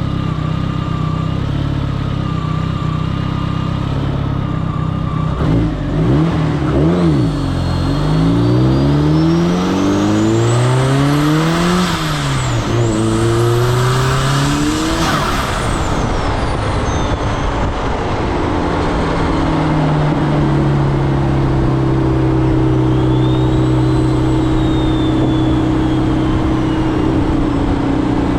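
Audi 1.8T turbocharged four-cylinder engine running steadily, then pulling hard through several gears, its pitch climbing and dropping at each shift. A high whistle rises and falls with the revs. The engine then settles into a steady cruise.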